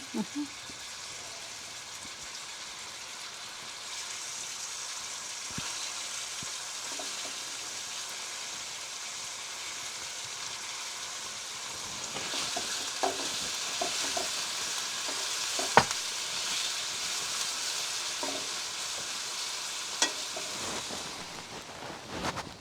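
Thin chicken strips frying in hot sesame oil in a non-stick wok: a steady sizzle that grows louder about four seconds in and again about twelve seconds in, then eases near the end. A few sharp clicks of a utensil against the wok as the pieces are stirred.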